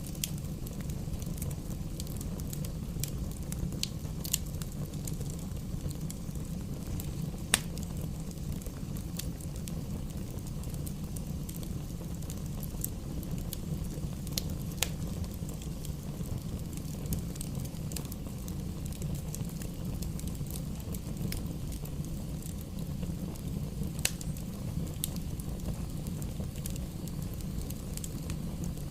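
Wood fire burning in a fireplace: a steady low rumble of flames, with scattered sharp crackles and pops from the burning logs. One pop, about a quarter of the way in, is louder than the rest.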